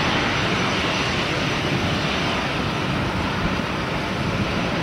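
Airbus A380-841's four Rolls-Royce Trent 970 turbofans running at takeoff thrust: a loud, steady rushing jet noise.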